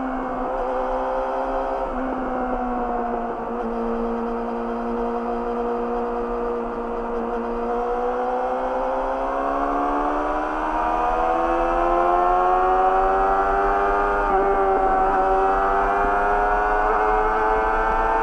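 Yamaha YZF-R6's inline-four engine through an Akrapovic slip-on exhaust under way: the engine note eases down at first, holds steady, then rises over several seconds from about the middle and gets louder. A short dip in pitch comes a couple of seconds later before it climbs again.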